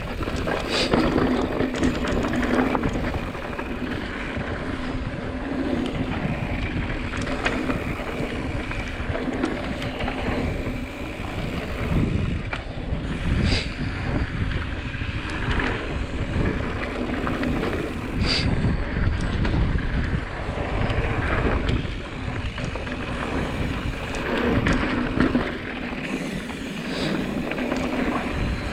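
Wind buffeting a helmet or chest-mounted action camera's microphone while a mountain bike rolls down a dirt trail, a steady rumble of tyres and frame over rough ground. A few sharp knocks come through from the bike going over bumps.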